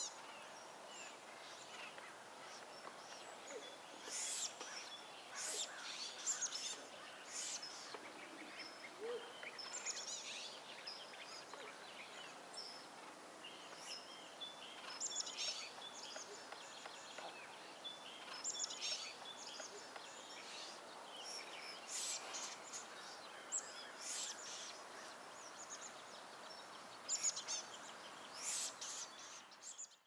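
Short bird calls and chirps scattered irregularly over a steady outdoor background hiss.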